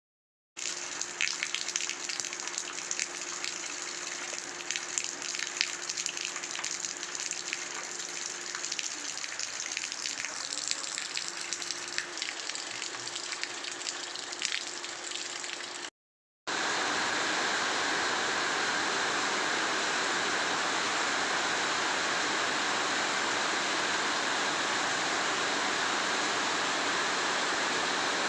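Rain falling, with many separate drops pattering against a low steady hum. After a cut about 16 s in, a heavier, even downpour.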